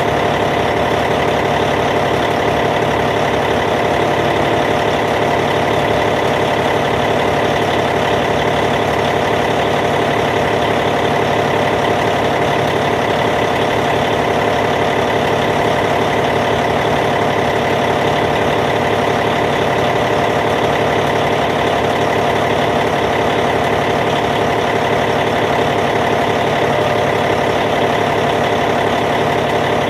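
Caterpillar C15 six-cylinder diesel engine of a Cat D8T bulldozer idling steadily, with an even, unchanging beat.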